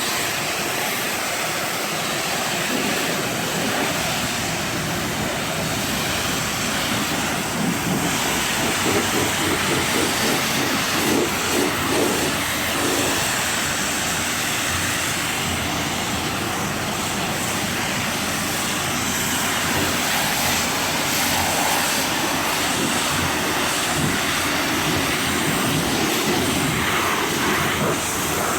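Pressure washer spraying water onto a truck, a steady unbroken hiss of the spray, rinsing the foam soap off.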